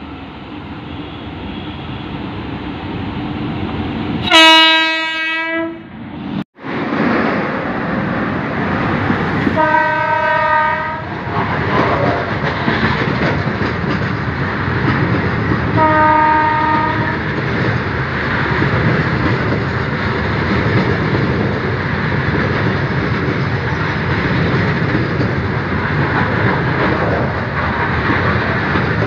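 A locomotive-hauled train drawing close and running past: the rumble grows louder, a loud horn blast sounds about four seconds in, and two shorter horn sounds follow around ten and sixteen seconds. After that comes the steady rumble and clatter of the many coaches on the rails.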